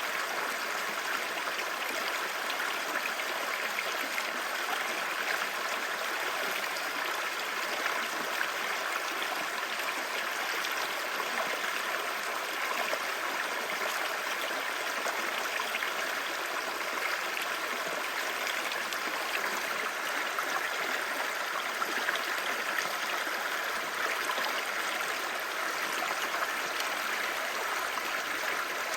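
Clear stream babbling steadily: an even rush of running water.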